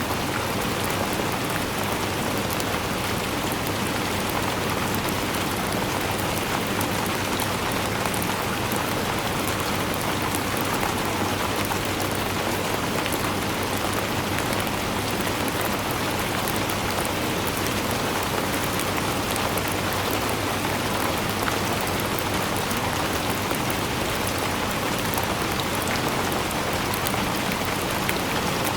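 Steady rainfall, an even hiss of rain with fine patter of drops on a surface.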